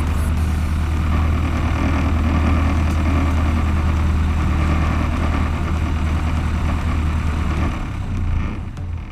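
Cessna 152's four-cylinder Lycoming engine running steadily at low power, falling away about eight seconds in.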